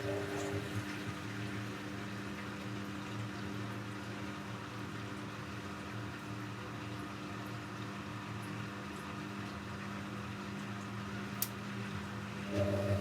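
Techwood WB 91042I washing machine running its cycle: water rushing inside the machine over a steady hum from its pump or motor. A single sharp click comes about eleven seconds in, and a louder hum starts up near the end.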